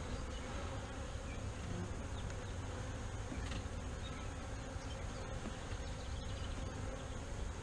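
A swarm of honey bees buzzing steadily around a box they have just been shaken into.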